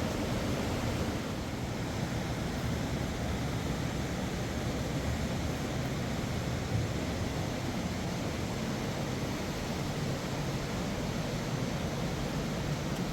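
Steady rushing of a fast mountain river, an even noise with no breaks.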